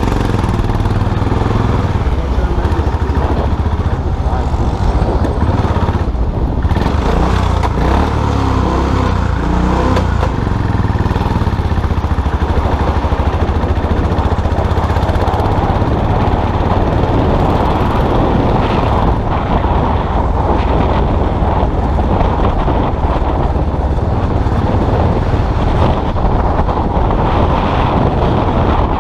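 Custom motorcycle engine running while under way, a steady low drone with a short change in engine note a few seconds in.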